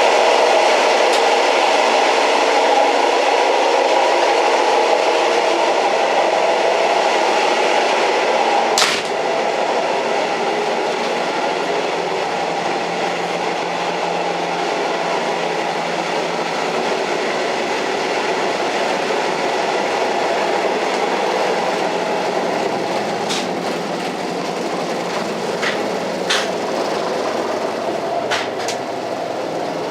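An old train running steadily, a dense even rumble, with a sharp click about nine seconds in and a few lighter clicks near the end.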